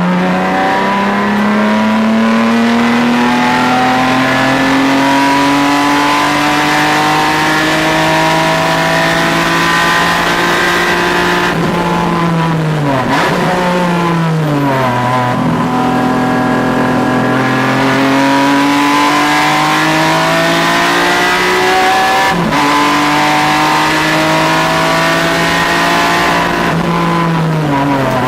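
Car engine heard on board during a lap of a racetrack. The engine climbs slowly under acceleration for about ten seconds, falls away through braking and downshifts a little before halfway, then pulls again. There is one sudden drop for an upshift about two thirds of the way in, and the engine falls off again under braking near the end.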